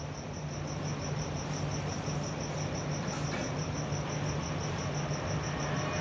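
Insect chirping: an even, rapid high-pitched pulse, several chirps a second, over a steady low hum.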